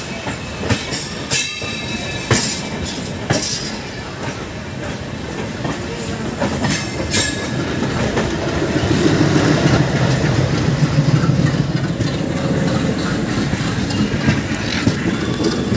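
Running noise of a moving train, with wheels clacking over rail joints, as another train's coaches and then its diesel locomotive rush past close alongside. The locomotive's low engine drone is loudest from about nine to thirteen seconds in.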